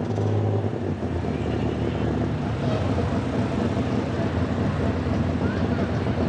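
Diesel engine of a super stock pulling tractor running steadily at low speed while hooked to the sled and taking up chain slack at the start line.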